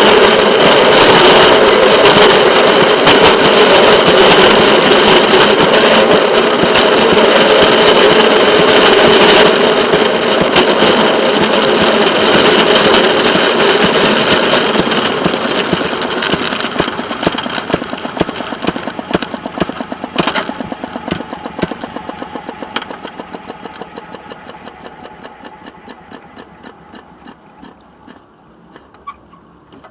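Passenger train running on the rails with a loud, steady rumble, then slowing: a long run of rhythmic wheel clicks that grow slower and fainter as it rolls nearly to a stop.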